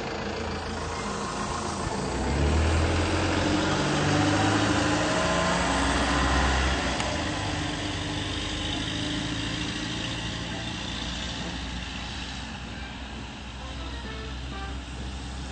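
Electric motor and propeller of a ParkZone Corsair RC plane in flight, a whine that swells as it passes close about two seconds in and fades after about seven seconds, with a low rumble of wind on the microphone.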